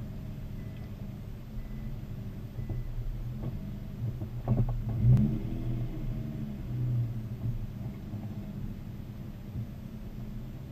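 Idling engines of a tuned Nissan GT-R and a Porsche 991 Turbo S waiting side by side, a steady low rumble. There is a brief louder swell with a sharp click about five seconds in, and a smaller swell near seven seconds.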